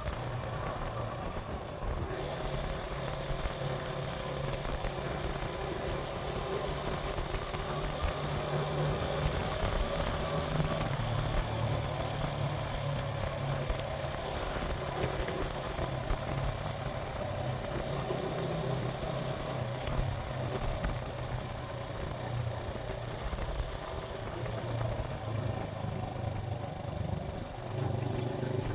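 Suzuki GN125 single-cylinder four-stroke engine running steadily on the move, its pitch drifting only a little, under a steady rush of wind noise.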